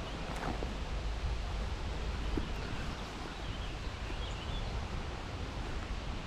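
Outdoor ambience: a steady rushing noise of wind and rustling, with a few faint chirps about three to four seconds in.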